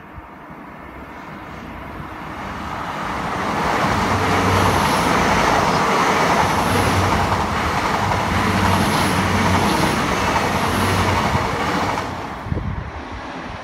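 Express passenger train passing at speed, a rushing rumble of wheels on rail that swells over the first few seconds, holds loud and steady, then falls away near the end as the last coach goes by.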